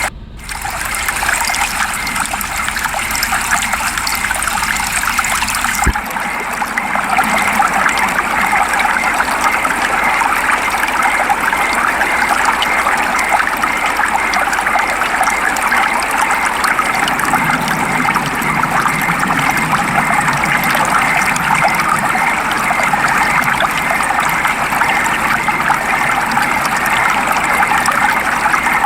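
Steady rain falling, an even wash of water noise with trickling in it; the sound changes character about six seconds in.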